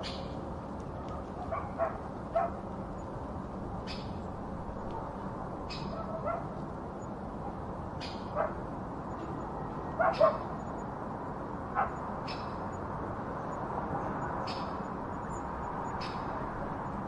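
A dog barking and yipping now and then over a steady background hiss, with a short high chirp repeating about every two seconds.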